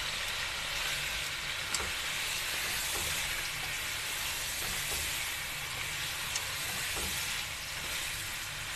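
Whole quail and freshly added garlic-ginger paste frying in hot oil in a karahi: a steady sizzling hiss with a few faint pops.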